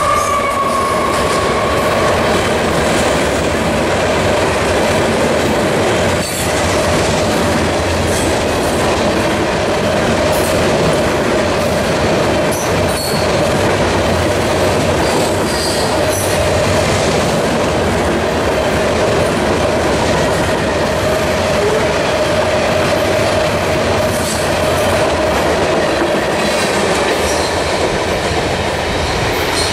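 Rock train's freight cars passing at speed: a steady, loud rumble and clatter of steel wheels on rail, with a steady ringing tone from the wheels over it. The locomotive's horn dies away in the first two seconds.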